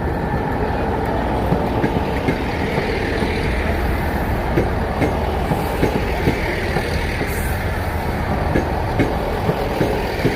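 Train passing over a level crossing: a steady rumble with the wheels clicking and clattering over the rail joints.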